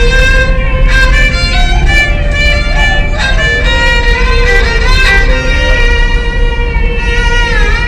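A bowed string instrument, busker-style, playing a slow melody with wavering, sliding notes over a steady low rumble. A note dips and rises again near the end.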